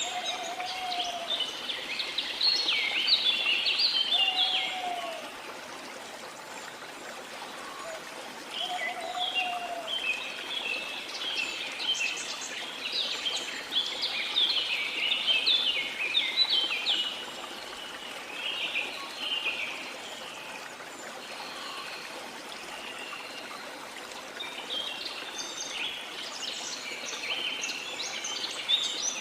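Rainforest birds singing in bouts of rapid high chirping, over the steady rush of a waterfall that stands alone in short lulls. A few short lower whistles come in the first ten seconds.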